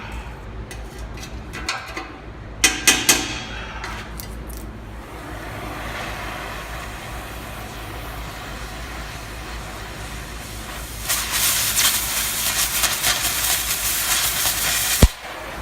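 Exhaust-shop work on the truck's exhaust: a few short metal clanks about three seconds in, then a loud hiss with crackle for about four seconds that cuts off suddenly.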